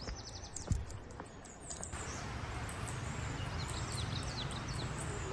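Birds chirping in short high calls, with a single thump just under a second in. About two seconds in, a steady rushing noise sets in under the chirps.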